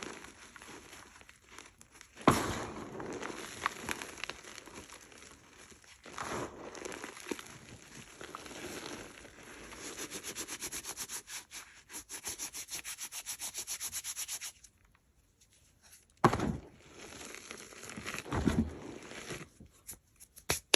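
Hard blocks of gym chalk being crushed and rubbed by hand, gritty crumbling and scraping with sharp crunches about two seconds in and again after a short pause near the end. In the middle, a fast, even scraping rhythm runs for about four seconds.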